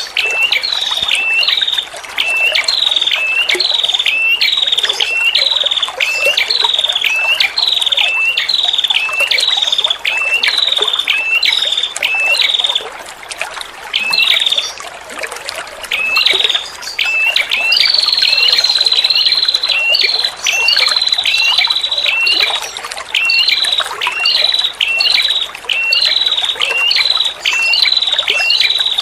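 Female red-headed prenjak, a small warbler-like songbird, singing a fast series of short repeated chirps, about two a second. Partway through it breaks off for a few seconds, then holds one long high note before the chirps resume. Trickling water runs underneath.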